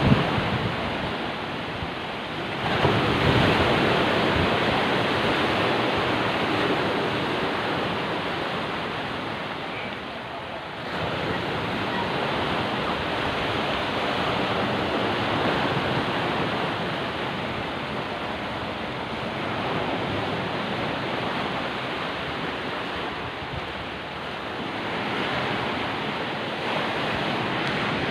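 Rough sea: waves surging and breaking in a steady rush of surf, with wind buffeting the microphone. The loudness swells and eases, with a surge about three seconds in.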